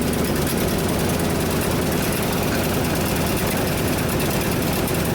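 1976 Ford F-600 dump truck's engine idling steadily while running poorly; the owners put the poor running down to a vacuum leak.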